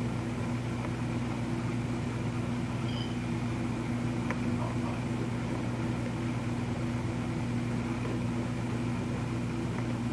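Small electric rotary grinding tool used for parrot grooming, running with a steady, even hum.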